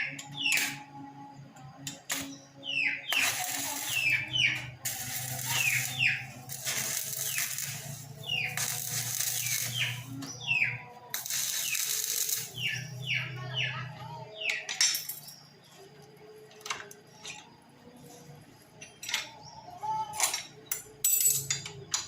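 Small birds chirping again and again in short falling notes, over several one-second bursts of hissing noise and a low steady hum, with a few sharp clicks near the end.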